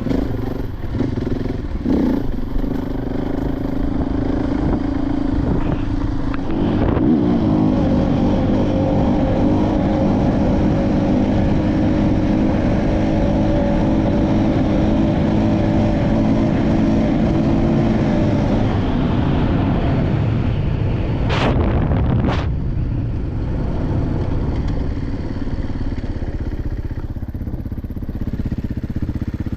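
Dirt bike engine running while riding. The engine note rises about seven seconds in and holds steady for around twelve seconds, then eases off, followed by two brief sharp sounds.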